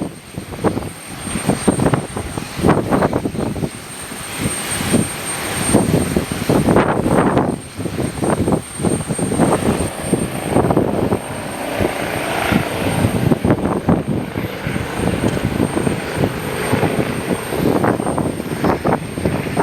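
Strong gusty wind buffeting the microphone in uneven surges, over the sound of aircraft engines running.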